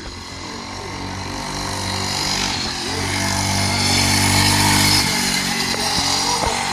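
Mini bike's small engine running, growing louder as it comes closer, loudest about four to five seconds in, then easing off as it moves away.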